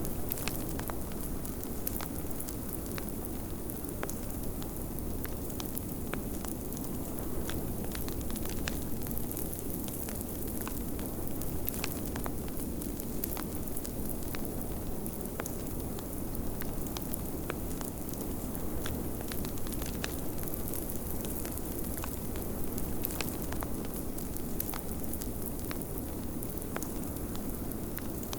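Wood fire crackling, with frequent irregular sharp pops, over a steady low rush of blizzard wind.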